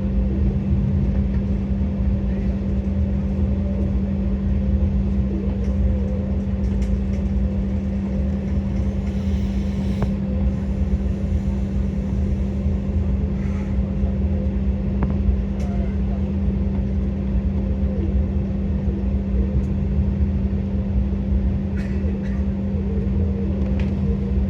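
Steady cabin noise inside an Embraer E190 jet airliner taxiing on the ground: a constant engine and air-conditioning hum with a steady low drone and a held tone, and a few faint clicks.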